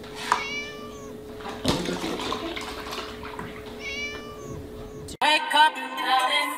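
Kitten meowing twice, short and high-pitched, with a knock and milk pouring from a carton into a plastic tub in between. About five seconds in, music takes over.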